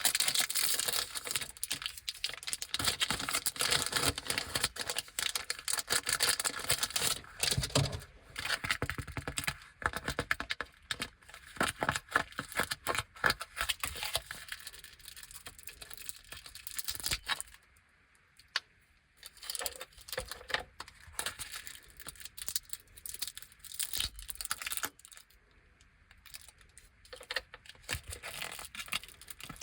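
Plastic packaging of Anpanman grape gummies crinkling and tearing as it is opened by hand, a close, dense crackle with a couple of short pauses in the second half.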